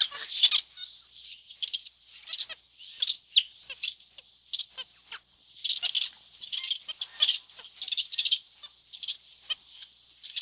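Dense high-pitched chirping and squeaking calls, many short calls in quick irregular clusters, from animals in the trees.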